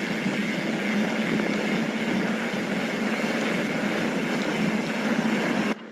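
Mountain bike rolling fast on a dirt fire road: a steady mechanical buzz and tyre noise that starts suddenly and cuts off suddenly near the end.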